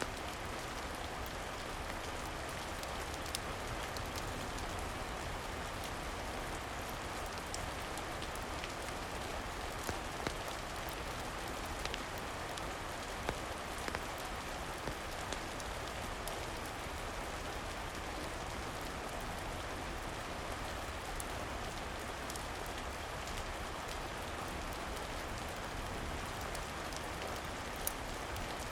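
Steady rain falling, an even hiss with a scattering of sharp single ticks here and there.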